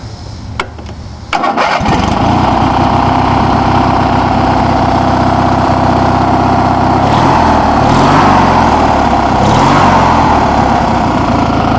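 Craftsman lawn tractor's Briggs & Stratton engine cranked and catching almost at once, about a second and a half in, then running steadily. The engine speed rises and falls a little a few times between about seven and ten seconds in.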